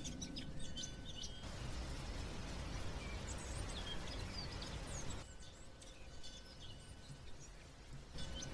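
Birds chirping over a steady background hiss of outdoor ambience. The background shifts abruptly about a second and a half in, again about five seconds in and near the end, like spliced ambience recordings.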